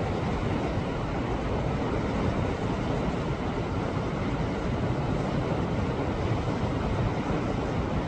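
Ocean waves surging against rocks on a rocky shore, a steady churning wash with no single break standing out.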